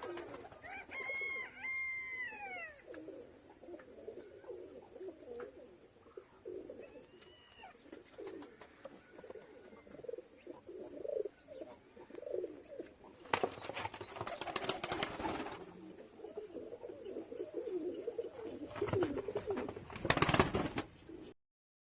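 Domestic pigeons cooing over and over in low, throaty phrases, with a couple of higher, falling calls near the start. Two loud rustling bursts break in, one about 13 seconds in and a shorter one near the end.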